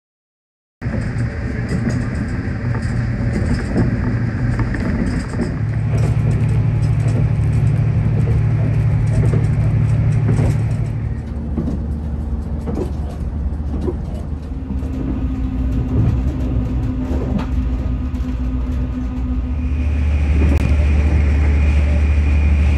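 Resort Shirakami train running on the Gono Line, heard from inside: a steady low drone and rumble of the running gear, with occasional clicks from the wheels. It starts a bit under a second in, and its pitch and level change abruptly several times as the footage cuts between shots.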